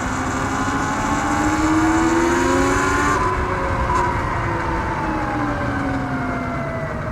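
Surron X Light Bee electric dirt bike's motor whining as it speeds up for about three seconds, then falling slowly in pitch as it eases off, over a steady rushing noise.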